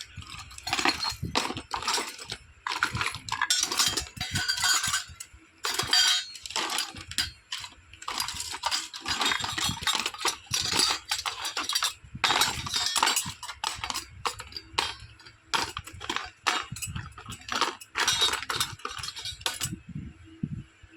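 Small plastic toy kitchen pieces from a miniature Hello Kitty cooking set clicking and clinking as they are handled, in quick irregular clusters that stop near the end.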